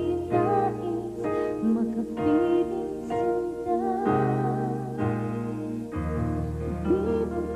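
A slow ballad: a woman singing a melody with vibrato over piano and keyboard chords that change about once a second.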